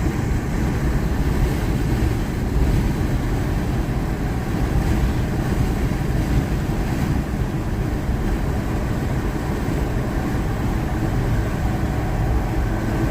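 Tow vehicle's engine and tyre noise running steadily on a downhill while it tows a heavy trailer in third gear, with the engine braking to hold the speed down.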